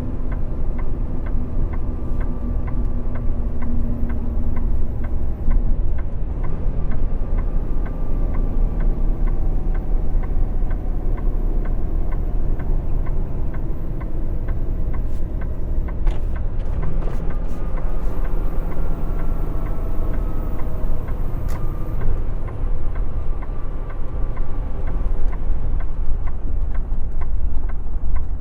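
Semi truck's diesel engine and road rumble heard from inside the cab while the loaded truck drives. The engine note slowly falls twice as it slows, and a regular faint ticking runs through the first half.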